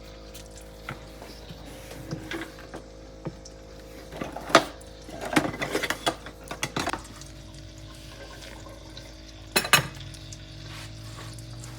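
Kitchen utensils and dishes knocking and clinking, as of a spoon against a bowl while a sauce is stirred: scattered light taps, a quick run of knocks around the middle, and a sharp double clink near the end, over a faint steady hum.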